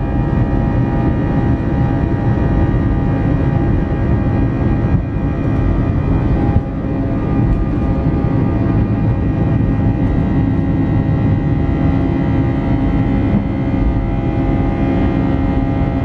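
Steady jet engine noise heard inside an Airbus A320 passenger cabin: a loud, even rumble with several steady whining tones on top. There is a brief dip in level about six and a half seconds in.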